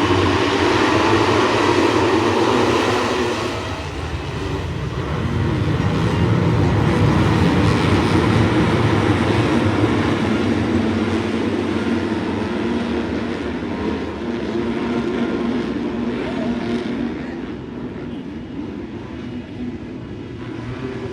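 Motocross dirt bikes racing on the track, their engines running hard and rising and falling in pitch as they pass.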